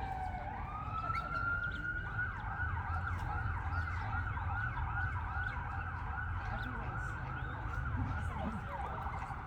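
Emergency vehicle siren: a rising wail switches to a fast yelp of about two to three sweeps a second, then drops and rises into a wail again near the end, over a steady low rumble.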